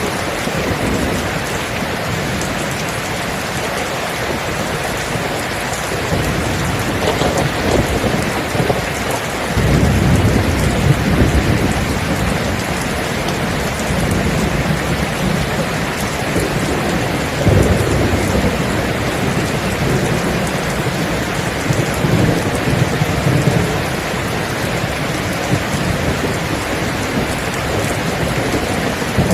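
Steady heavy rain with rolling thunder: low rumbles swell up about a third of the way in and again past the middle, over the constant hiss of the rain.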